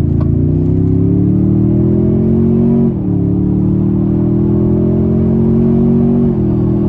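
Toyota Tundra TRD Pro Hybrid's 3.4-litre twin-turbo V6 under full-throttle acceleration. The engine note climbs steadily in pitch, drops suddenly at two upshifts (about three seconds in and again near the end), then climbs again.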